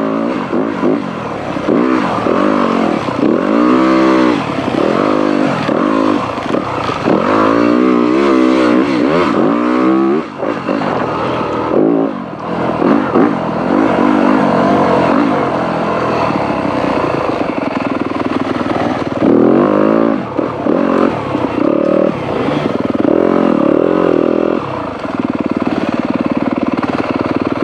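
Dirt bike engine ridden through tight single track, revving up and falling back over and over, its pitch rising and dropping every second or two.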